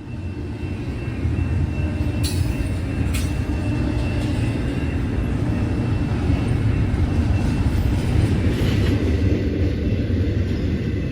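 CSX intermodal freight train rolling past, a steady loud rumble of wheels on rail with a faint high ringing tone above it and two sharp clicks a few seconds in.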